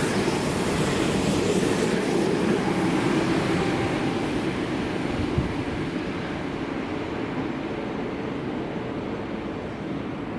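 Electric train passing, a steady rumble and hiss that fades away after about halfway through as the train moves off.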